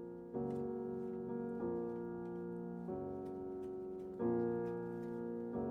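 Slow piano music: soft chords struck about every second and a half, each left to ring and fade.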